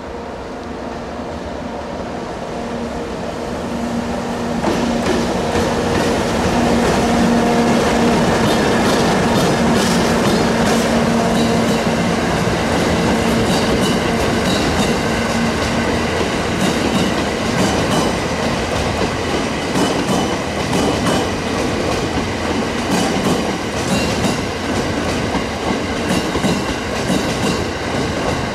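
An EF64 electric locomotive approaches and passes, its steady hum growing louder over the first few seconds. The hauled E217-series cars then roll by with a repeated clickety-clack of wheels over rail joints.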